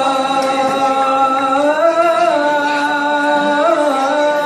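A man singing an Arabic mawwal, holding one long drawn-out note on the word "mata". The pitch steps up about two seconds in, and there is a brief ornamental turn near the end.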